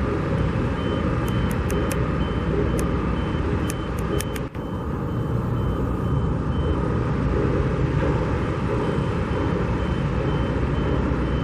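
Steady rumble of traffic and construction machinery, with a vehicle's reversing alarm beeping at an even pace through most of it and pausing for a couple of seconds about two-thirds of the way in.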